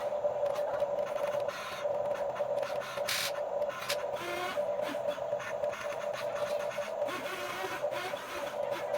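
Huina 1550 radio-controlled toy excavator's small electric motors and plastic gearboxes running, a steady whine with rasping gear noise that swells and fades several times.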